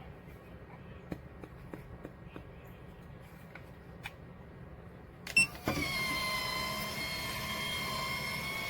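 Electric lid motor of a 12 V RV roof vent fan starting with a click about five seconds in, then running with a steady whine as it drives the vent lid open. A few faint clicks come before it.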